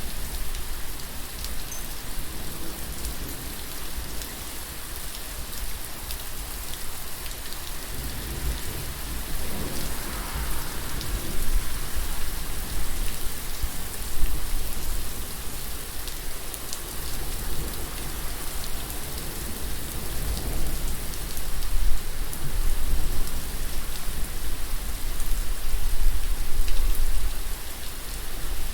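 Steady rain falling in an even hiss, with a low rumble underneath that swells about ten seconds in and again through the second half.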